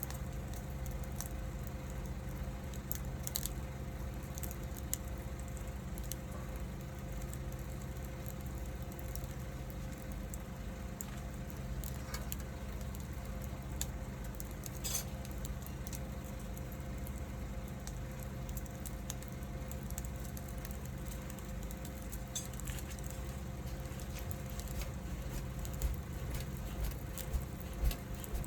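Wood fire crackling: scattered small pops and snaps over a soft hiss, with a steady low hum underneath.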